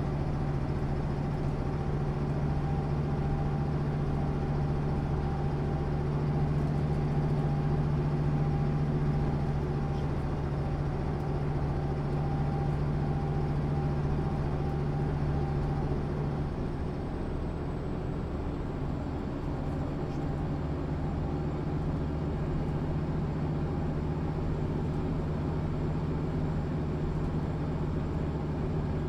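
1996 MAN SÜ 272 NCT bus's diesel engine running steadily. About halfway through the engine note eases a little and a faint high whine drops in pitch.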